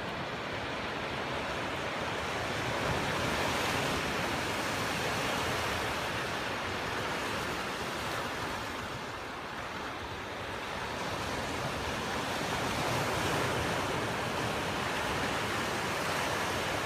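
Ocean surf washing against a rocky shore, a steady rush that swells, eases off about halfway through and builds again.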